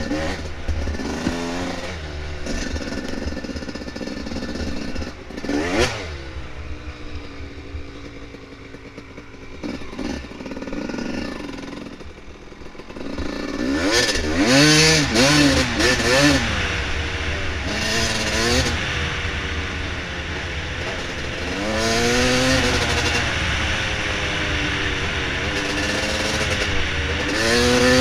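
Dirt bike engine revving up and down as it is ridden, with clattering from the bike. It runs softer for a stretch in the middle, then picks up with several rising surges of pitch in the second half.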